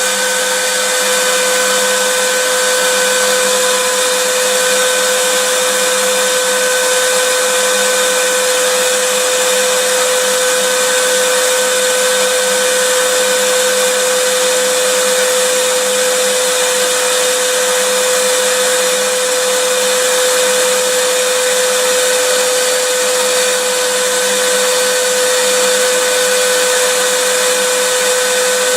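Vacuum cleaner running steadily: an even rushing hiss of air with a constant motor whine.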